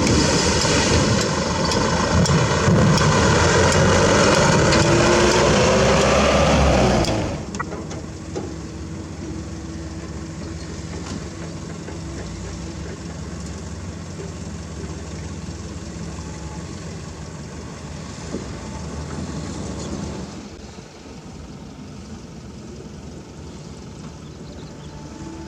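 A heavy diesel engine of a construction vehicle running loud, its pitch rising. About seven seconds in the level drops suddenly, and a quieter diesel engine runs on steadily at idle.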